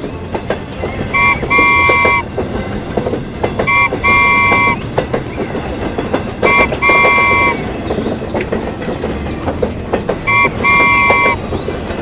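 Train horn sounding four times, a short toot then a longer one each time, roughly every three seconds, over a steady clickety-clack of wheels on rails.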